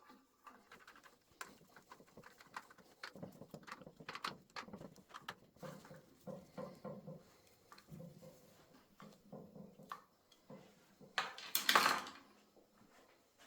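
Irregular clicks, knocks and dull clunks of tools and metal motorcycle parts being handled on a workbench, with a louder rushing noise lasting under a second near the end.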